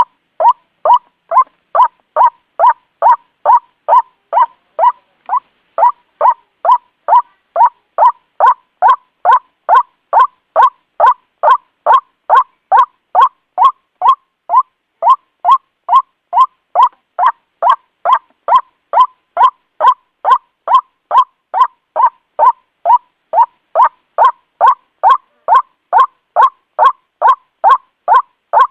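White-breasted waterhen calling: a loud, monotonous run of short "kwak" notes, about two a second, repeated without pause.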